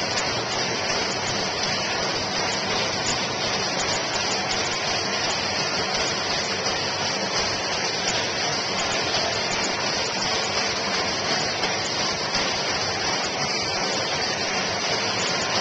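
A steady rushing hiss that runs unbroken, with no distinct strokes or footfalls.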